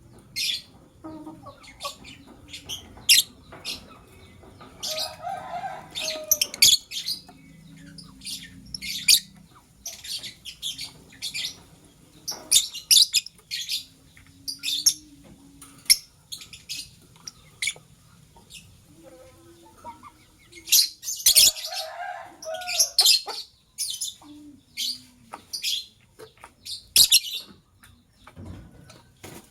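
Lovebirds chirping: a busy, irregular run of short, shrill chirps, with a couple of lower, harsher calls in between.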